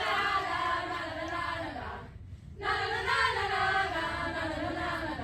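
A group of girls singing together in unison, with a short break about two seconds in.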